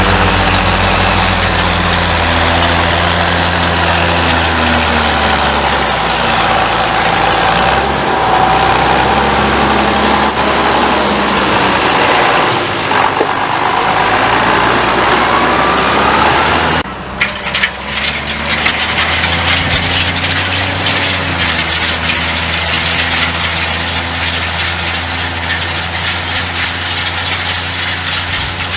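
John Deere 6810 tractor's diesel engine running, its pitch shifting up and down, with a thin whine rising in pitch for a few seconds. About seventeen seconds in the sound drops and changes abruptly, then the engine runs on steadily.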